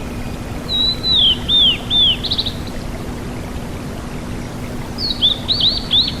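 A tledekan gunung (sulingan gunung) songbird singing two short phrases of high whistled notes that slide downward, the first about a second in and a quicker run of notes near the end, over a steady hiss and low hum.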